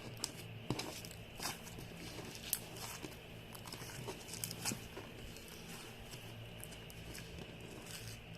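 Freshly made stretchy slime being squeezed and worked by hand, giving scattered small clicks and pops over a steady low hum.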